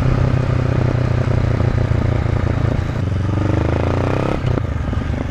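Honda CB500F's parallel-twin engine through an SC Project Conic titanium slip-on exhaust, pulling under load with the pitch climbing as revs rise. There is a clean upshift about four and a half seconds in, then it picks up again. Wind noise runs underneath.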